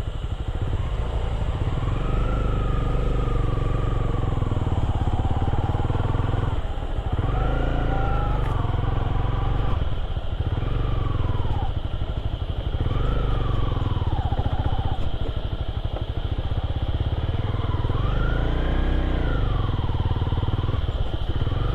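Motorcycle engine running under a steady low rumble, its revs rising and falling every couple of seconds.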